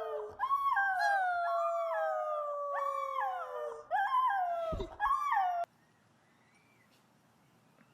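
Dogs howling together: one long, slowly falling howl under a second voice in short notes that each jump up in pitch. The howling cuts off suddenly about five and a half seconds in.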